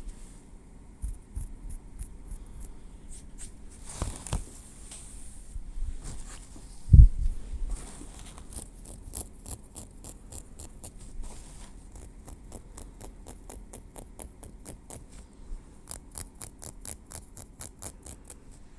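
Metal tweezers working through hair against the scalp: quick runs of soft, high ticks and light scratches, close to the microphone. A single low thump about seven seconds in is the loudest sound.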